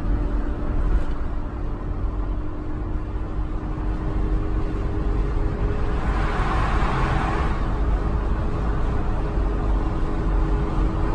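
Car road noise heard from inside a moving car on the highway: a steady tyre and engine drone with a low hum. A rushing hiss swells and fades about six seconds in.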